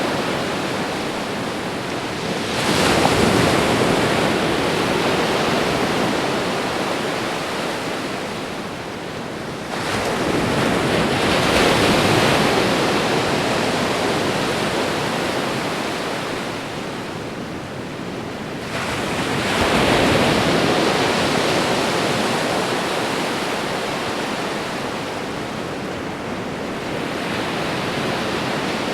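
Ocean waves breaking on a shore: three surges about eight seconds apart, each coming in suddenly and fading into a long hiss of surf.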